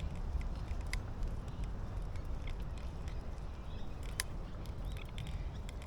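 Steady low rumble of wind and motion on the microphone of a moving bicycle, with two sharp clicks and a few faint bird calls.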